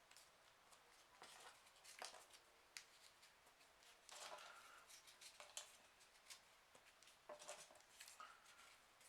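Faint, irregular rustling and crinkling of folded printer-paper origami pieces being handled and slotted together into a row.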